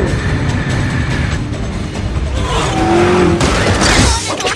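Action-film sound mix of car engines running hard at speed under a music score, with a loud rushing burst about three and a half seconds in.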